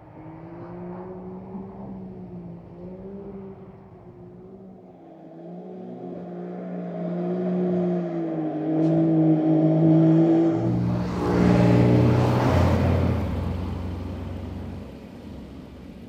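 Porsche 911 Dakar's twin-turbo flat-six revving up and down as the car drives hard on a snowy road, growing louder. A deeper engine note and a rush of noise swell as it passes close, about eleven to thirteen seconds in, then fade away.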